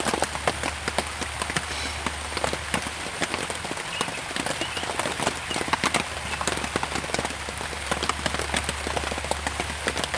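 Rain pattering on a tarp tent overhead: a dense, irregular patter of drops, steady throughout.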